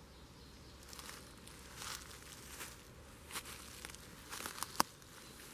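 Irregular rustling and crackling of plants being brushed and pushed through, with a sharper click near the end.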